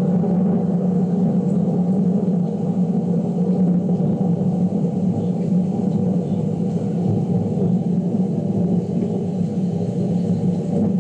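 Thunder rolling in a long, low, continuous rumble that holds steady without a sharp crack.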